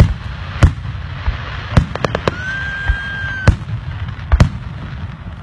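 Aerial fireworks bursting: sharp bangs every second or so, some in quick pairs. Midway a high whistle holds one note for about a second and ends in one of the loudest bangs.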